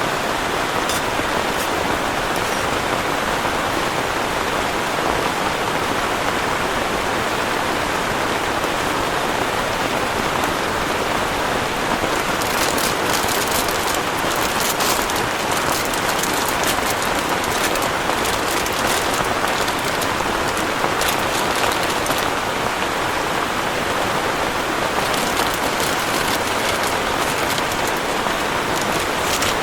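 Heavy rain falling steadily, with spells of sharp, crackly drop hits on a near surface around the middle and again near the end.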